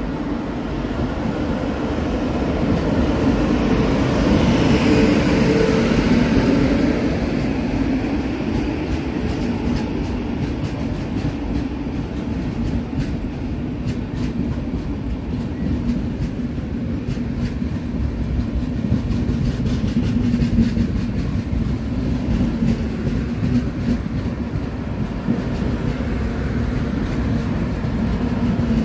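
Express train running through the station: a steady rumble with a low hum that swells to its loudest a few seconds in, then settles as the coaches roll by, with rapid clicking of wheels over the rails.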